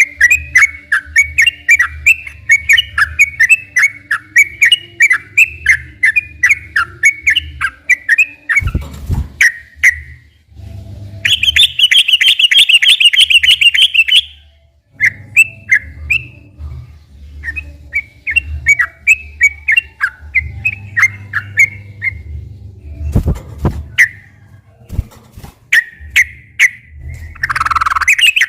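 Yellow-vented bulbul (trucukan) singing a long run of quick, bubbling chirped phrases, with a louder, faster trill about eleven seconds in. Two dull thumps sound, one about nine seconds in and one past twenty seconds.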